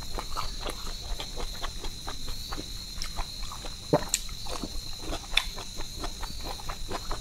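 Close-up mouth sounds of someone eating by hand: chewing with a string of small wet clicks and smacks, one sharper click about four seconds in. A steady thin high tone runs underneath.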